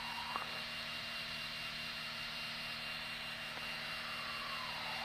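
Steady drone of a Piper Arrow's single piston engine and propeller heard inside the cockpit, with a small click about half a second in.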